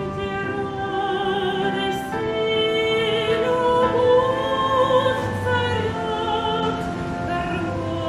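Operatic-style singing over orchestral accompaniment, with long held notes carrying a wavering vibrato.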